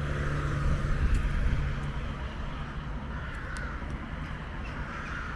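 City street ambience with wind rumbling on the microphone and a vehicle's engine hum that fades out about a second and a half in.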